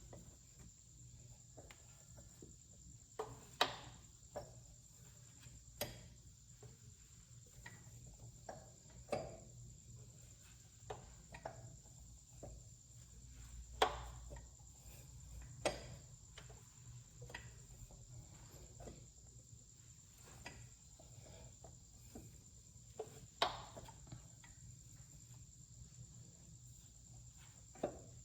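Nord 2.0 L twin-cam engine running with a faint, low steady hum and sharp clicks at irregular spacing, roughly one every one to four seconds. This intermittent clicking is the fault being investigated.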